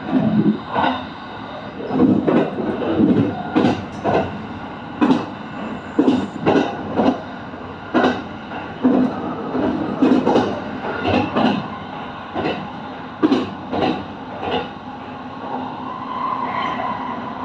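Kintetsu train's wheels running over rail joints and points: a quick run of loud, irregular clacks and knocks over the running noise, easing near the end into steadier running with a held tone.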